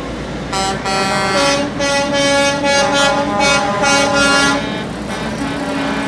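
Truck air horns honking in a string of blasts at several pitches, some overlapping, over the low rumble of truck engines.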